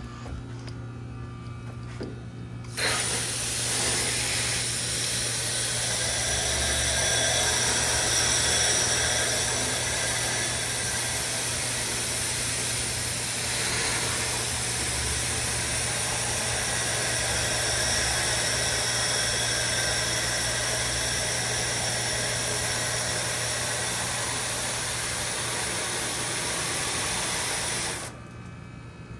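Water spraying hard from a hose nozzle onto a heat pump's outdoor coil as it is washed: a loud, even hiss that starts abruptly a few seconds in and cuts off shortly before the end. A steady low hum runs underneath throughout.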